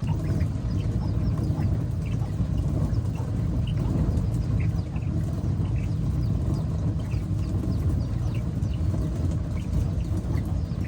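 Young poultry cheeping in many short high calls over a steady low rumble.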